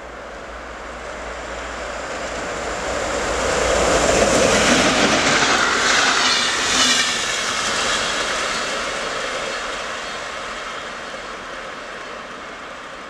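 Electric locomotive-hauled InterCity passenger train passing at speed on a mainline: rushing wheel and rail noise grows as it approaches, is loudest as the coaches go by about four to seven seconds in, then fades as it runs away.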